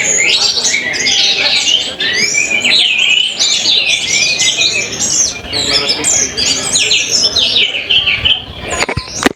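Several orange-headed thrushes singing at once in a song contest: dense, overlapping runs of fast, varied whistled phrases. A sharp click near the end cuts the song off.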